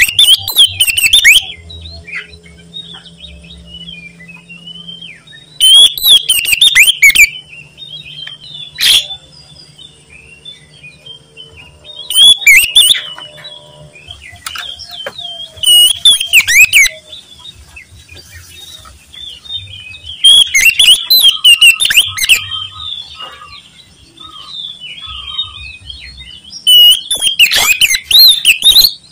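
Oriental magpie-robin (kacer) singing a loud, varied whistled song in bursts: about seven loud phrases of one to two seconds each, a few seconds apart, with quieter warbling between them.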